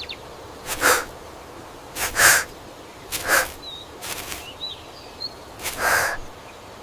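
A series of short whooshing noises, about one a second, six in all, with a few faint bird chirps between them.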